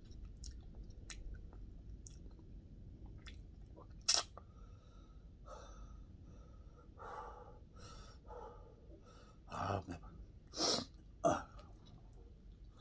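A man chewing food close to the microphone with small wet mouth clicks, a sharp click about four seconds in, and three short, louder breath sounds near the end.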